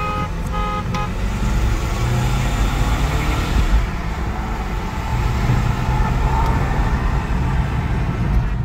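BMW 520d's four-cylinder M47 turbodiesel pulling hard at full throttle, engine note climbing under heavy wind and road noise. Two short beeps sound in the first second.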